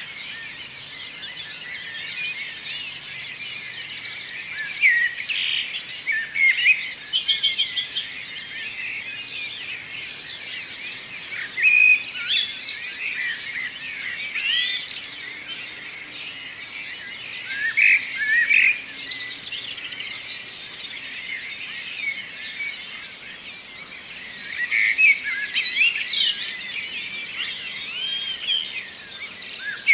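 Morning chorus of several songbirds singing at once: overlapping chirps, trills and whistled phrases, with louder bursts of song every few seconds.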